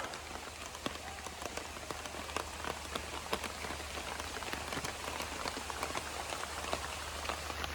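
Steady rain falling, an even hiss of rainfall sprinkled with many separate sharp drop ticks.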